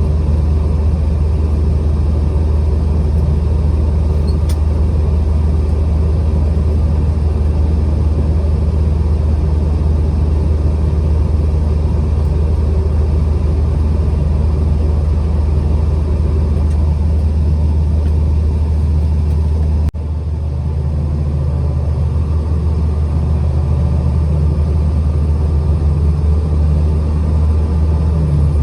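Truck driving: a steady, heavy low rumble of engine and road noise, with a sudden brief dropout about twenty seconds in before the rumble carries on.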